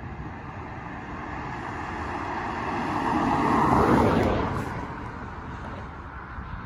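A road vehicle driving past close by, growing louder to a peak about four seconds in and then fading away.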